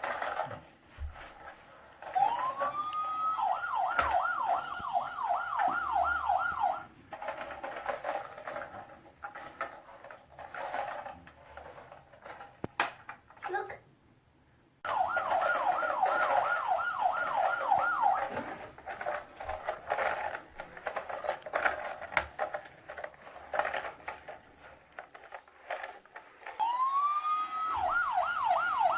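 Toy police car's electronic siren: a rising tone that breaks into a fast warble, about three cycles a second, sounding in three stretches of a few seconds each. Scattered clicks and knocks come between them.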